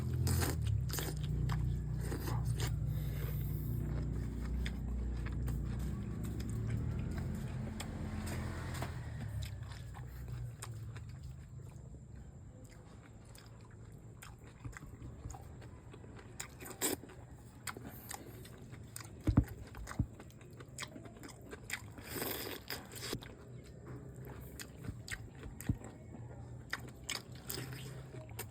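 Close-miked mukbang eating sounds of a person eating bulalo: chewing, biting and wet mouth smacks, with many short sharp clicks, a few of them loud. A low hum under the first third fades away.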